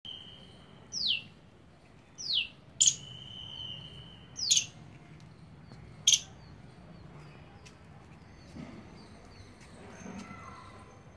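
Birds calling: a few short, shrill calls that drop in pitch and some sharp chirps, a second or two apart, with a steady high whistle held between them early on.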